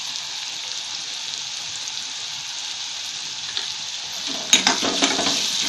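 Chopped onions frying in oil in a steel kadhai, a steady sizzle. From about four seconds in, a steel spatula stirs through them, clicking and scraping against the pan.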